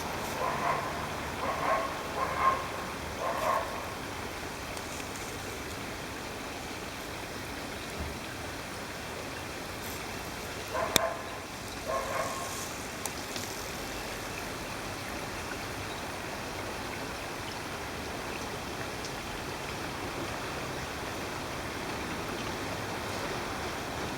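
Steady rush of a mountain stream. Over it come a few short animal calls: four in quick succession near the start and two more about halfway.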